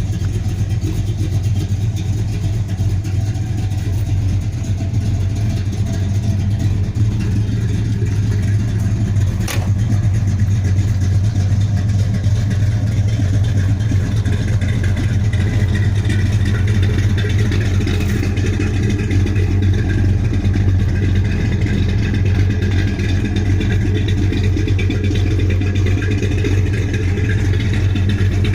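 Plymouth Road Runner's 440 cubic-inch V8 running steadily at an even speed, with one brief click about nine and a half seconds in.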